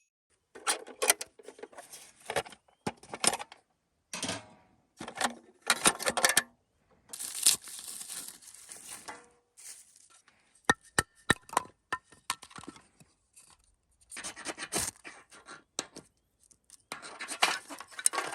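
Intermittent handling noises: rustling and tearing sounds mixed with sharp clicks and light knocks, coming in short bursts with pauses between.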